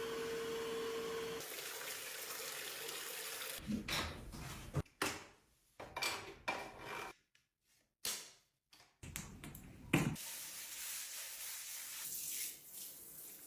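Running water with a steady rush. Midway it breaks into short knocks and handling clatter, with brief silent gaps.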